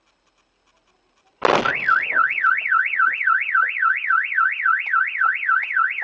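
Silence for over a second, then a brief noisy burst and a car alarm siren warbling rapidly up and down in pitch, about three and a half sweeps a second.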